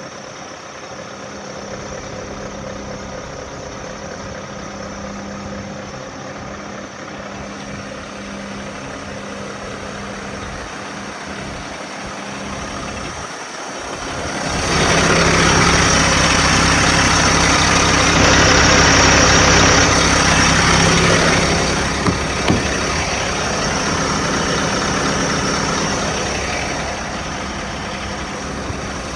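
Scania R660's 16-litre V8 diesel engine idling steadily. About halfway through the sound grows much louder and fuller for roughly seven seconds without rising in pitch, then settles back to the idle.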